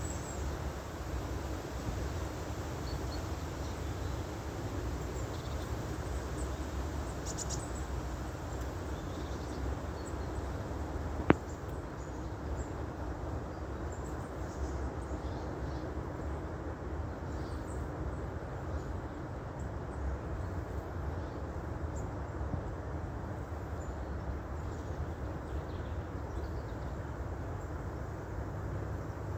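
Steady outdoor ambience: a low, even rumble with faint, scattered high chirps like small birds. A single sharp click about eleven seconds in.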